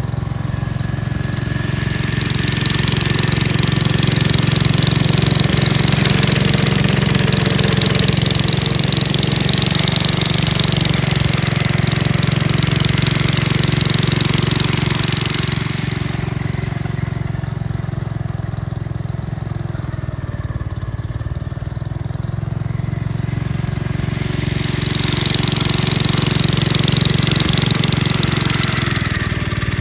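Gravely walk-behind tractor engine running steadily while driving a snowblower attachment. A higher rushing sound over the engine is strong for the first half, drops away about halfway through, and comes back near the end.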